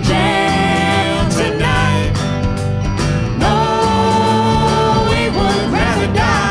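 Band playing a country-bluegrass style song: guitar and bass rhythm under a melody of long held notes with short bending phrases between them.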